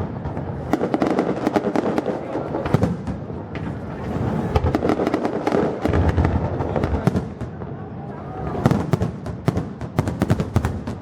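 Fireworks going off in a display: rapid crackling and bangs in dense clusters, with a short lull about two thirds of the way through before another thick burst.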